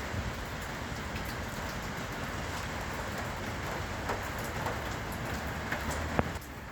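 Steady heavy rain falling, with scattered sharp drip and drop taps through it.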